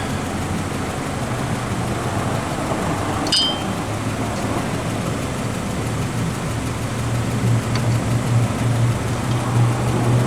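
Steady low hum of a motor vehicle's engine, growing louder in the second half. A single light metallic clink about three seconds in.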